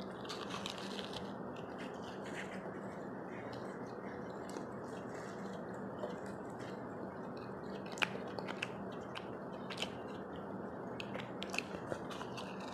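Close-miked chewing and wet mouth clicks of someone eating puri dipped in chole, short irregular clicks, a few louder ones near the end, over a steady background hiss and faint low hum.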